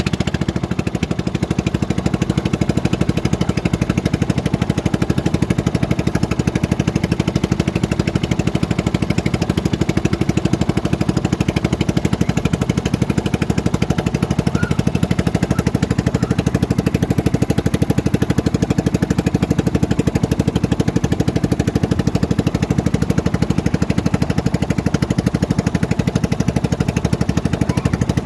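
An engine running steadily at an even speed, loud and close, with a fast, even firing pulse.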